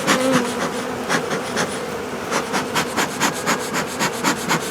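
Honeybees buzzing over an open hive, a steady hum, under a string of short scraping strokes about two to four a second from work on the hive.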